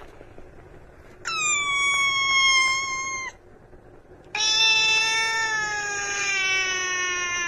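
A cat giving two long, drawn-out meows: the first about two seconds long, the second starting about four seconds in, longer and slowly falling in pitch.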